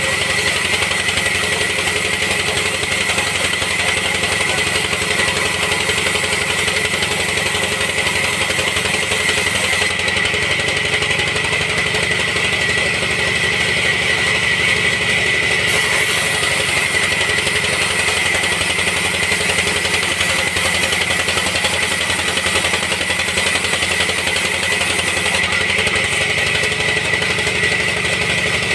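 Sawmill machinery running steadily, a constant mechanical drone with a high, steady whine.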